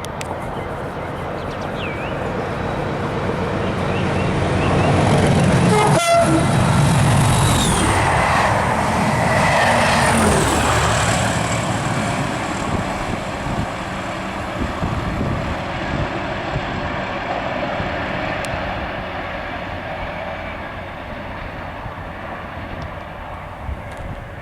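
A train passing at speed: its noise builds, peaks with a falling pitch as it goes by, then slowly dies away.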